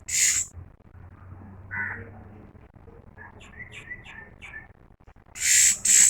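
A bird giving loud, harsh, hissing screeches: a short one at the start and two near the end. Between them come a brief call and a quick run of short chirps.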